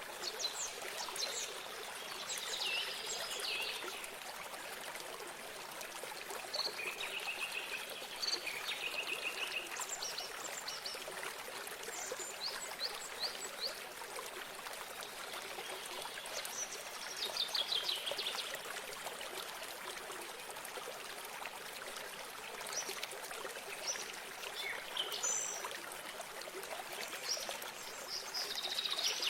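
A small stream of water trickling steadily, with several songbirds chirping and trilling over it at intervals.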